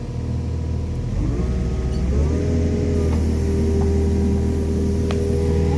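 Excavator diesel engine running, throttled up about a second in and then holding steady at the higher engine speed.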